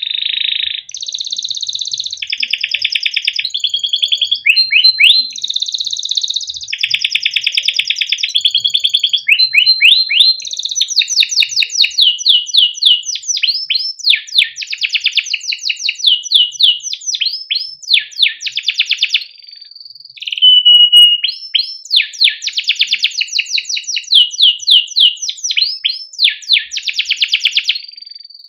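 Domestic canary singing a long unbroken song of rapid repeated chirps and fast trills, with short held whistled notes now and then, sung as master song for teaching young canaries.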